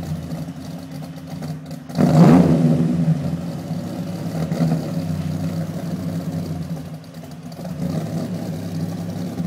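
The 8.0-litre V10 of a 2000 Dodge Viper with the Kingsnake package idles on a cold start. About two seconds in there is one sharp throttle blip: it rises quickly and settles back to idle within about a second.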